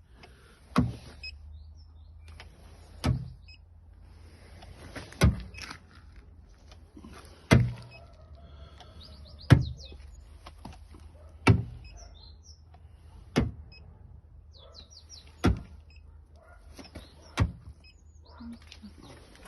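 A sharp click or knock about every two seconds, nine in all, over a steady low hum, with birds chirping now and then.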